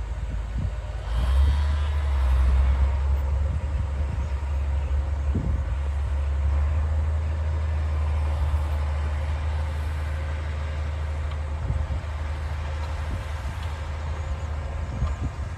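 A D60 bulldozer's diesel engine working, a steady low drone that gets louder about a second in.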